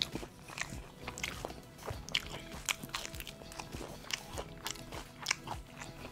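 Crisp crunching and chewing as someone bites into crispy-battered fried chicken, about two sharp crunches a second, over background music.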